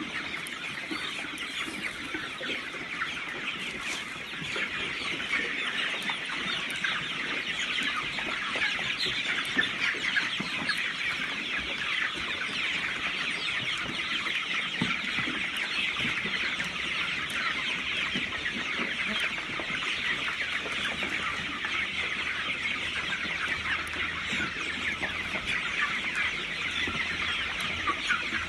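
A large flock of chickens in a poultry house calling all at once: a dense, steady chatter of many short high calls, a little louder after the first few seconds.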